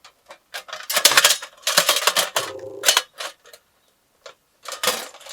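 Metal ash tray being slid into the slot under a fire pit's bowl: clusters of sharp metal clacks and rattles, a short pause, then one more clack near the end.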